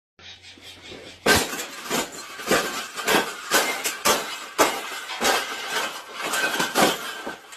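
Repeated clanking, rattling knocks, roughly one to two a second, the loudest about a second in.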